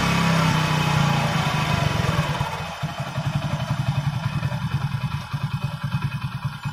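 Hero HF Deluxe's single-cylinder four-stroke engine running at a raised idle, its pitch falling as the carburettor's idle-speed screw is backed off; about two seconds in it drops to a slow, even idle with each firing pulse distinct. The air-fuel mixture screw has just been set at the point of highest RPM to improve fuel mileage.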